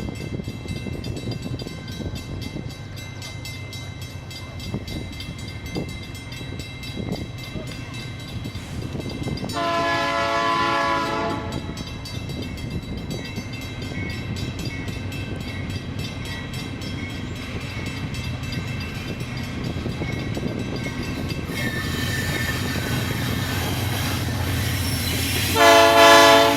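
A train rolling past with a steady rumble of wheels and wagons. Its horn sounds twice: a blast of about a second and a half about ten seconds in, and a short, louder blast near the end.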